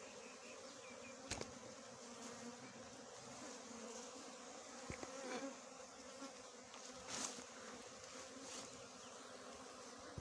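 Small honeybees buzzing in a steady hum around their nest, with a few brief sharp knocks.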